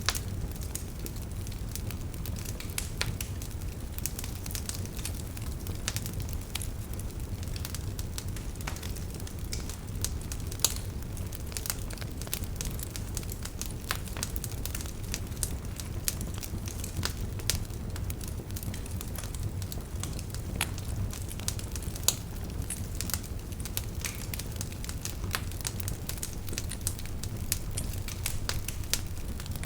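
Wood fire in a fireplace crackling, with steady irregular snaps and pops over a low rumble of the flames. A few pops stand out louder.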